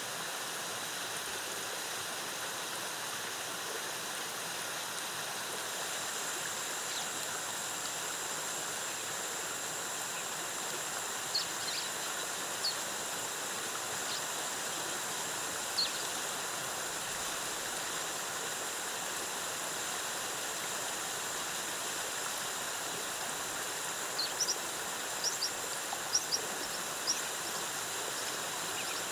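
Waterfall water cascading with a steady rushing hiss. About six seconds in, a thin, steady high whine joins it. Short high chirps come in two scattered groups, one near the middle and one near the end.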